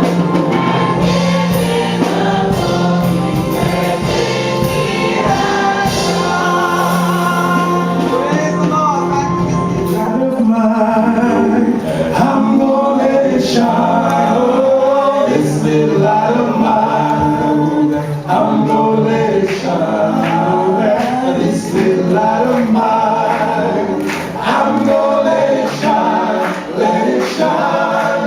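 A gospel choir singing in harmony without recognisable words, over a steady low held note through the first ten seconds or so.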